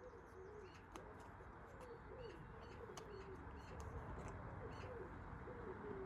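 Faint bird calls: a low call repeated again and again, with a few faint clicks.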